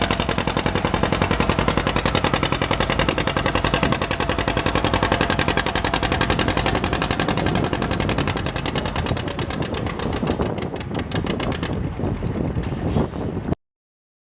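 Antique tractor engine pulling hard under load, its exhaust a fast, even string of firing pulses. The beat slows and gets quieter about ten seconds in, then the sound cuts off suddenly near the end.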